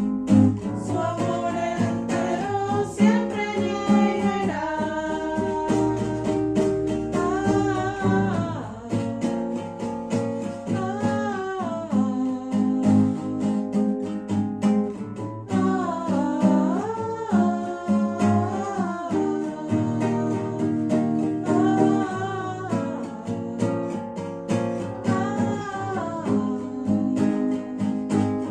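Acoustic guitar playing with a voice singing a melody over it.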